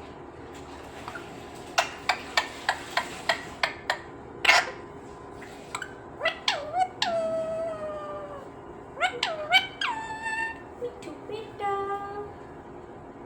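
Green parrot making a quick run of clicks, then one harsh squawk, followed by several squeaky, drawn-out calls that drop in pitch.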